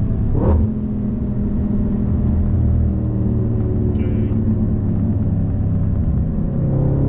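Audi RS5 B8's 4.2-litre V8 with an Akrapovič exhaust, running on the road. There is a brief rise in revs near the start, then it settles to fairly steady revs with the pitch slowly sinking.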